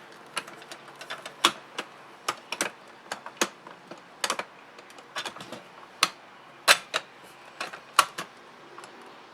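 Hard plastic toy parts clicking and knocking as they are handled and pressed shut again and again, with sharp irregular clicks a few times a second. A part of the toy keeps popping out instead of staying closed.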